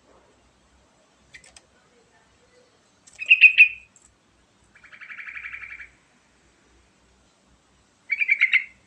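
Sooty-headed bulbul (trucukan) singing: a short faint note, then two loud bubbly phrases about five seconds apart, with a fast, even chattering trill between them.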